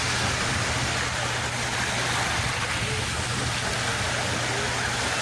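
Sea water rushing in an even, steady hiss with no distinct wave breaks, over a low steady hum.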